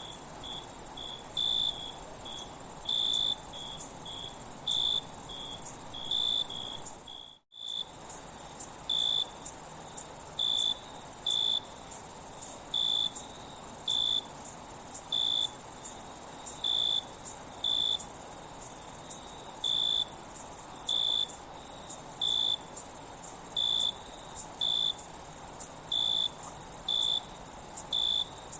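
Night insect chorus: a steady high-pitched insect drone with a nearer cricket chirping at an even pace, about one chirp a second. The sound cuts out completely for a moment about seven seconds in.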